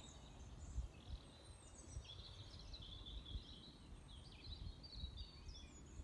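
Faint birdsong in open countryside: several small birds twittering and chirping continuously, over a low background rumble.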